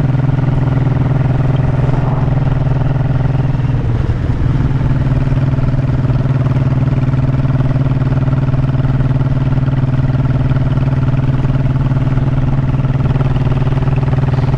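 Honda motorcycle engine running steadily while riding, heard from the rider's seat, with a brief dip in the engine note about four seconds in.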